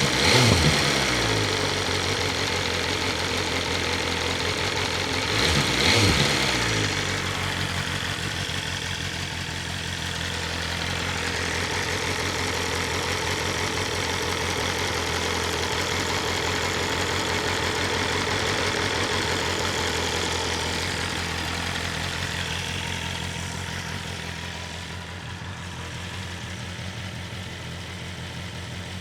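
BMW S1000RR inline-four engine idling steadily through its stock Akrapovic exhaust, with two short throttle blips, one at the start and one about six seconds in, the revs rising and falling straight back each time. The idle gets a little quieter near the end.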